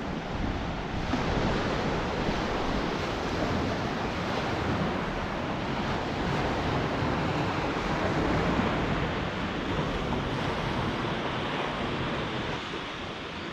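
Ocean surf washing onto a beach, a steady rush of waves mixed with wind buffeting the microphone, easing a little near the end.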